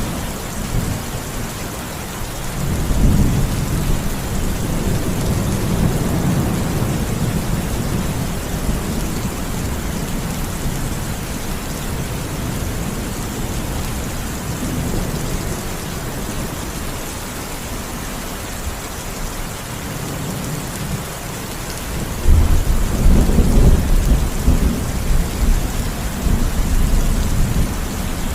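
Steady heavy rain hissing, with rolling thunder: a low rumble swells about three seconds in and fades, and a louder thunderclap breaks out suddenly near the end and rumbles on.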